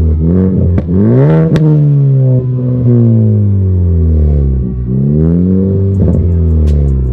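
Ford Focus ST with a catless AWE Track exhaust and Vibrant ultra quiet resonator, its engine revving: the revs climb for about a second and a half, then fall slowly for a few seconds, then climb and ease off again. A few sharp ticks come near the end.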